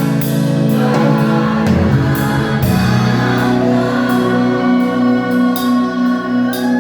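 Church worship music: singing over a band, with long held notes and a steady cymbal beat.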